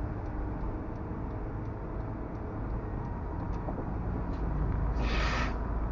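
Dashcam recording of a car driving: a steady low road and engine rumble, with a brief hissing rush of noise about five seconds in.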